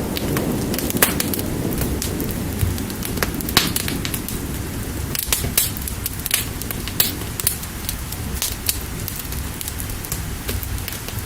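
Fire crackling with irregular sharp pops, over steady rain. A low rumble fades out over the first few seconds.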